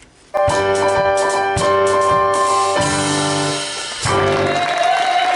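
Electronic keyboard playing a short run of held chords over a few drum hits, with the chord changing twice. Audience applause comes in during the last second or so.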